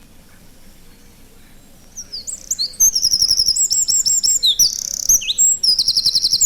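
Eurasian wren singing: after about two seconds of quiet background, one loud, fast song of high repeated notes and trills that lasts about four and a half seconds and stops abruptly near the end.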